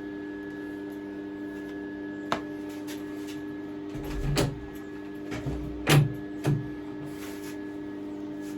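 A workshop door being opened: a click, then a few knocks and thumps, loudest about four seconds in and twice around six seconds, over a steady electrical hum.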